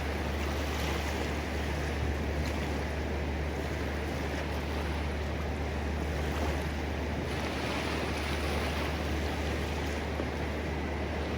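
Ocean surf washing steadily, with a constant low rumble underneath.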